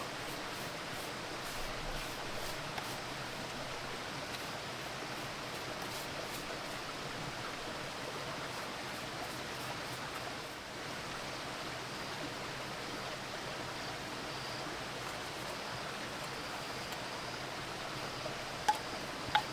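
Steady rushing noise, with two sharp clicks near the end.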